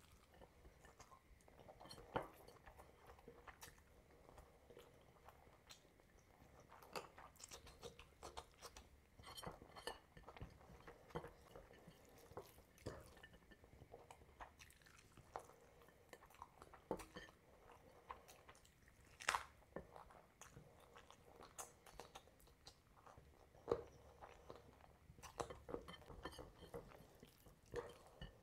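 Close-miked chewing and mouth sounds of a person eating rice and curry, with irregular wet clicks and smacks; two louder ones come about 19 and 24 seconds in.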